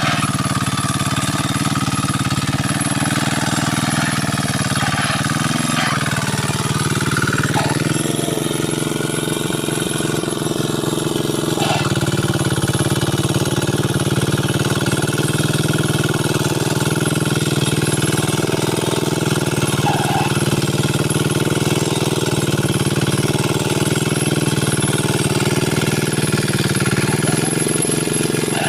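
Kuliglig two-wheel hand tractor's single-cylinder diesel engine running steadily with a rapid chugging beat, its pitch shifting briefly about six to eight seconds in.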